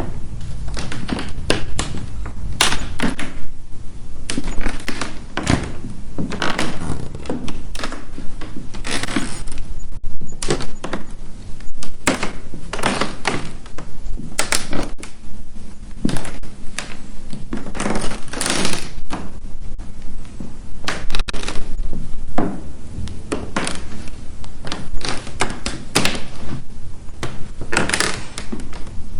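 Footsteps on a wooden floor: a run of irregular knocking steps, about one to two a second, some heavier than others, over a low steady hum.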